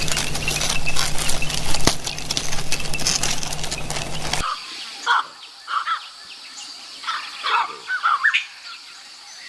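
A dense, noisy stretch full of clicks over a steady low hum, which cuts off suddenly about four seconds in. Then, against quiet, comes a string of short bird calls, some in quick pairs.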